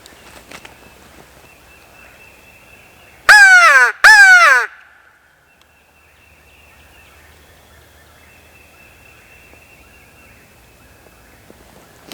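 Two loud caws blown back to back on a crow locator call, about three seconds in, each bending down in pitch at its end. It is a locator call meant to make a gobbler shock gobble.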